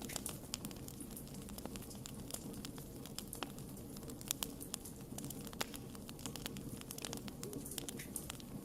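Wood fire crackling: irregular sharp snaps and pops, several a second, over a low steady hum.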